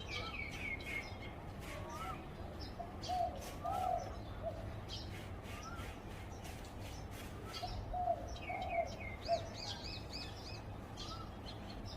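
Zebra dove cooing in two short runs of soft, bubbling notes, about three seconds in and again near the ninth second, while smaller birds chirp and trill higher up in between.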